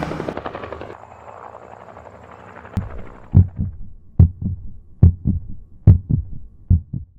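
Heartbeat sound effect: low double thumps, a strong beat followed by a weaker one, repeating about once a second from around three seconds in. Louder sound fades out during the first second.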